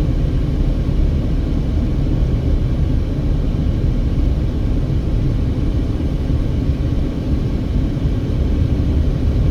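Steady low rumble of a car driving along a road: tyre, road and engine noise, even and unbroken.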